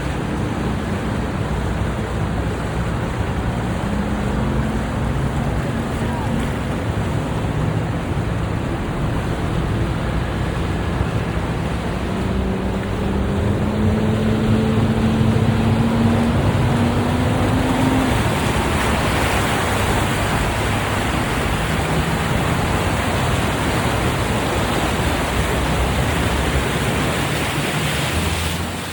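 Steady rushing noise of wind and passing traffic, with a vehicle engine speeding up, its pitch rising, from about 4 to 18 seconds in. A hiss that grows from about 14 seconds in, typical of tyres on a wet road.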